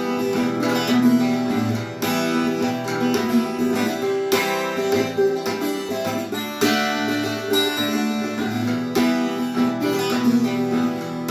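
Acoustic guitar playing chords with a steady rhythm, an instrumental passage with no singing.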